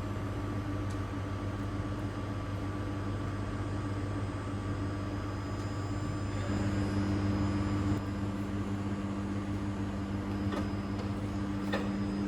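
Steady machine hum with a low electrical drone. About six and a half seconds in, a second, higher hum joins and it grows slightly louder for a moment.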